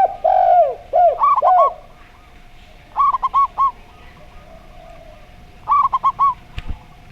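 Zebra dove and spotted dove cooing. There is a phrase of arched coos in the first two seconds, then two short runs of four quick coos about three seconds apart, with a sharp click near the end.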